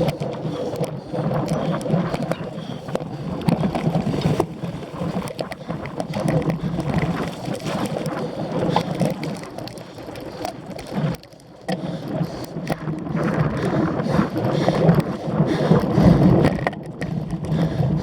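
Cyclocross bike ridden fast over rough ground, with wind buffeting the microphone and many small knocks and rattles from the bike. It goes briefly quieter about eleven seconds in.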